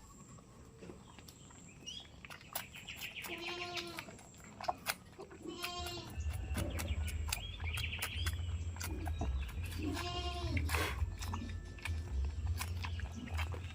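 Goats bleating several times, some calls low and wavering and some higher-pitched, with short clicks between them.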